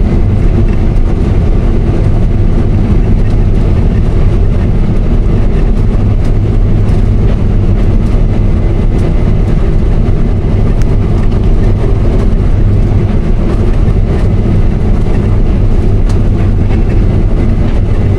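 Combine harvester running steadily while cutting wheat: a loud, even machine drone that stays strongest at the low end.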